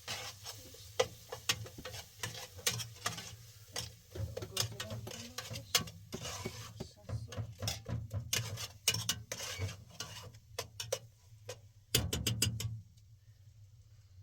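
Irregular clinks, taps and knocks of kitchen utensils against pots and dishes during cooking, with a quick cluster of clatter about twelve seconds in, after which it goes quieter.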